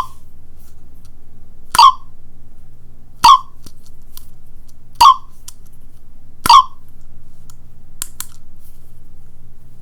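A small sound-button capsule toy pressed repeatedly, giving five short, loud sound bursts about every second and a half, then two faint clicks.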